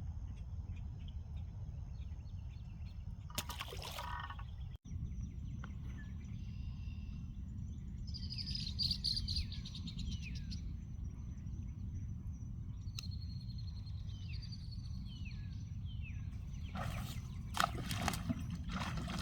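Birds calling near the water: a run of short, high chirps, each sliding down in pitch, over a steady low outdoor rumble. A few brief clattering noises come about four seconds in and again near the end.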